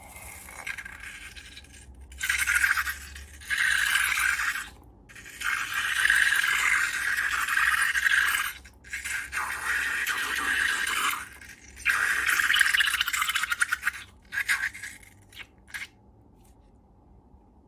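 Repeated scraping with a fine crackle, in several bursts of one to three seconds each, from slime being worked with a tool, then a few short scrapes before it stops near the end.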